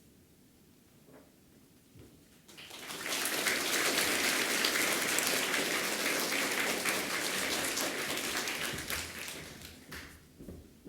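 A hall audience applauding: clapping breaks out about two and a half seconds in, holds steady, then dies away near the end.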